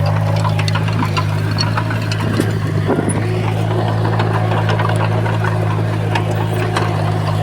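Komatsu bulldozer's diesel engine running steadily, with scattered metallic clicks and clanks over it.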